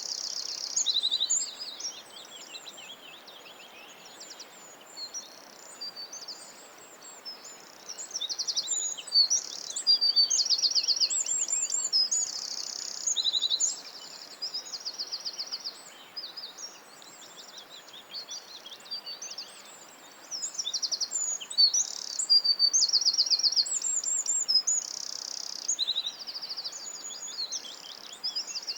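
Several songbirds singing in woodland, with rapid high trills and chirps coming in phrases every few seconds over a faint background hiss.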